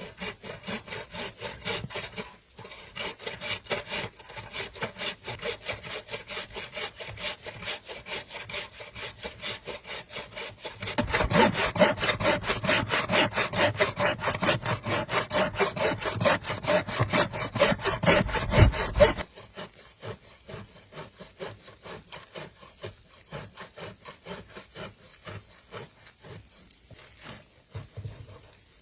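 Hand saw cutting through wood with rapid, even back-and-forth strokes. The strokes grow louder partway through, then turn quieter and sparser for the last third.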